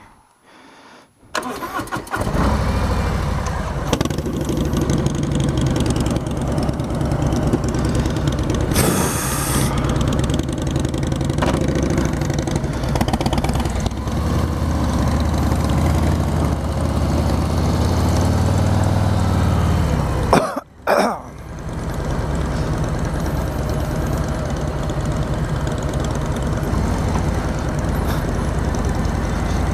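Harley-Davidson V-twin motorcycle engine starting about two seconds in, then running steadily. There is a short break about twenty seconds in, after which it runs on.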